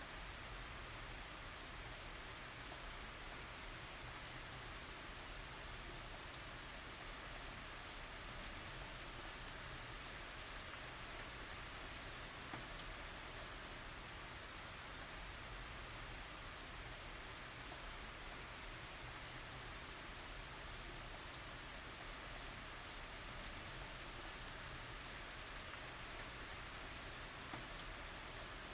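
Steady tropical rain falling, an even hiss with scattered drops striking surfaces.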